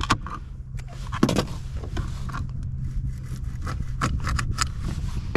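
Knife cutting small bluegill into bait chunks: irregular scrapes and light knocks, over a steady low hum.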